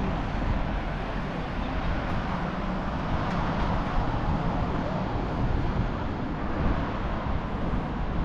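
City street ambience: a steady rumble of passing road traffic.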